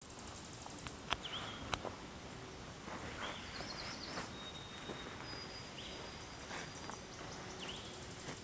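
Short bird chirps and calls scattered over a quiet forest background, with two sharp clicks a little after a second in.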